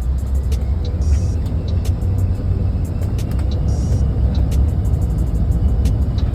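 Steady low rumble of a moving road vehicle, with music and its regular beat of short ticks and hisses over it.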